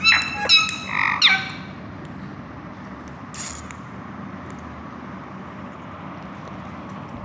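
Indian ringneck parrot giving a quick run of sharp, angry calls in the first second and a half, then falling quiet over a steady low background hum, with a brief hiss-like burst about three and a half seconds in.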